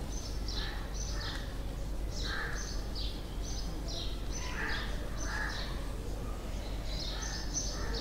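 Small birds chirping, a run of short, high, falling chirps two or three a second, over a low steady hum.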